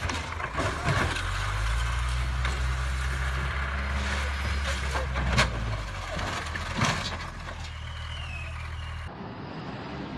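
Heavy machine's diesel engine running steadily, with sharp knocks about one second in, near five and a half seconds (the loudest) and near seven seconds. A short squeal comes near the end, and the engine sound stops abruptly.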